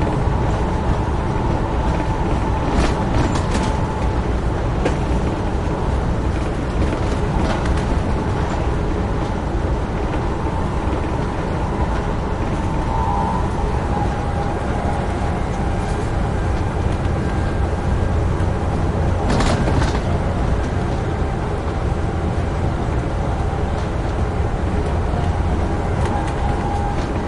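Amtrak Northeast Regional train running at speed: a steady rumble of wheels on rail with a faint steady whine, and a few sharp clicks about three seconds in and again near twenty seconds.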